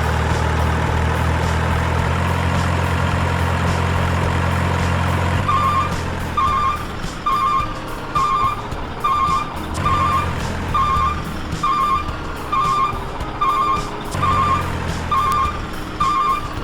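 A truck engine running steadily, then a reversing alarm starts beeping about five seconds in, repeating a little more than once a second while the engine rumble comes and goes underneath.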